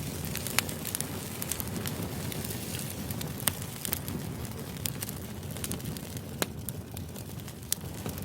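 Crackling fire: a steady low rumble with sharp pops and snaps at irregular moments.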